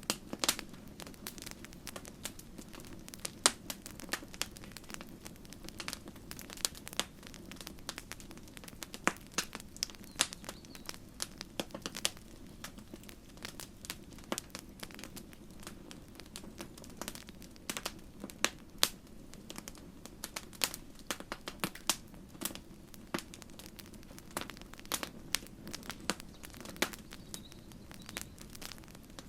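Campfire crackling: irregular sharp snaps and pops from burning wood over a steady low rumble of flames.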